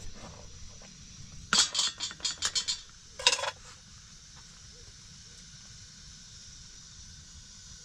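A quick run of light clinking knocks, like small objects or utensils being handled, about a second and a half in, then one more short clatter a moment later, over a steady hiss.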